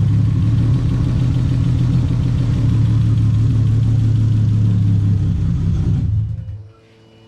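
Lexus IS300's engine idling steadily, its hydraulic lifters still filling with oil after a restart. Near the end it is shut off and runs down within about a second, leaving a faint electrical hum.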